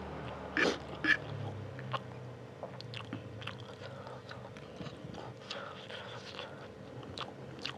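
A man chewing spicy fried instant noodles with wet chewing and lip smacks. There are two louder clicks about half a second and a second in, then smaller ticks and smacks throughout.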